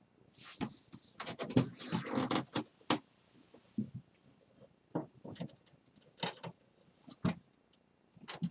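Handling noises of a taped ceramic bowl being put into a drying cabinet: a run of clicks, knocks and rustles in the first three seconds, then a few single knocks.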